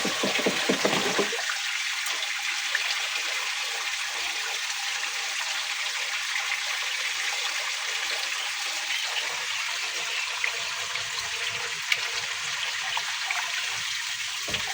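Water rushing and swirling in a whirlpool vortex, a steady hiss of moving water.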